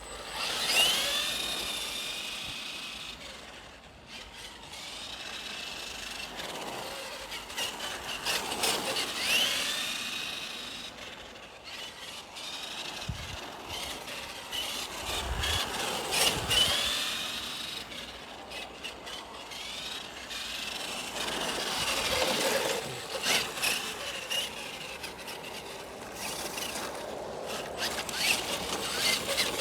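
Twin 550 brushed electric motors of an RC monster truck whining up and down in repeated bursts as it accelerates and slows, with a rough scraping noise over it. It is running on a 2-cell LiPo that is not fully charged, so it has little speed.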